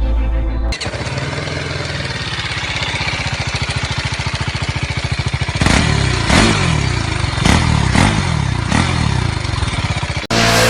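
BMW G310 R's 313cc single-cylinder engine idling with a steady, rapid pulse from its exhaust, then its throttle blipped about five times in quick succession in the second half. The sound cuts off abruptly shortly before the end.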